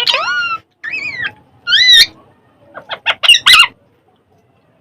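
Pet parrot calling: a series of short, loud pitched squawks, four separate calls followed by a quick cluster of shorter ones.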